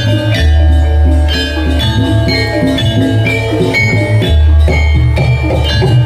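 Javanese gamelan music: a quick melody of struck metallophone notes over deep, long-held bass notes.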